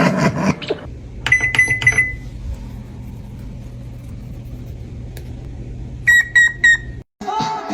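A brief loud noise right at the start, then high, even electronic-style beeps like a microwave oven's: a quick run of about four about a second in, and three more near the end.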